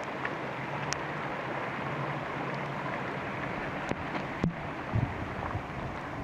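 Steady rain falling through a forest, with a few sharp drips, and low gusts of wind buffeting the microphone from about four and a half seconds in.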